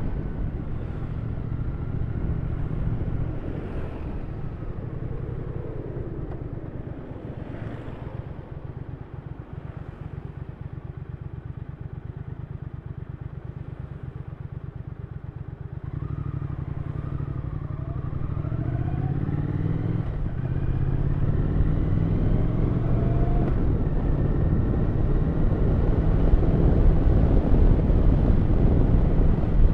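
Triumph Thruxton 1200 RS parallel-twin engine running under way. It runs quieter for the first half, then about halfway through the revs climb in rising sweeps and it grows louder as the bike accelerates.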